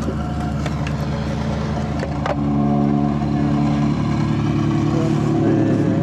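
An engine running steadily, its pitch shifting slightly a couple of times, with a few light clicks.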